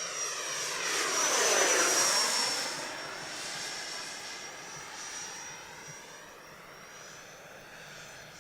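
FMS F-18F model jet's 70mm electric ducted fan making a fast pass, a steady high whine over a rushing sound that swells to its loudest about two seconds in, then fades as the jet flies away.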